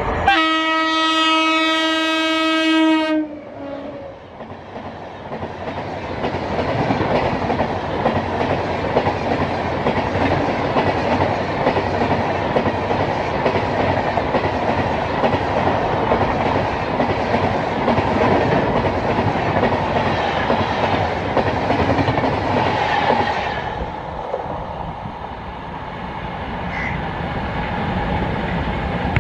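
WAP-7 electric locomotive's horn sounds one long blast of about three seconds. Then the express's coaches pass close by with a steady rush and rapid wheel clatter on the rail joints, easing off and fading a few seconds before the end as the train goes by.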